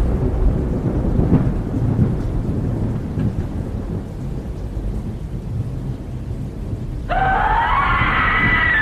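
Thunderstorm: thunder rumbling over steady rain. About seven seconds in, a cat's long meow starts, rising and then falling in pitch.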